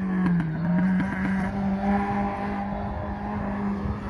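Ford Escort race car's engine at high revs on a hill climb, holding a steady pitch that dips briefly and climbs back just after the start, with a few sharp cracks near the start.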